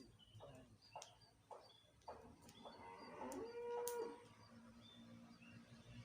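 A cow mooing once, a single drawn-out call about three seconds in, over faint high chirps and a few soft clicks.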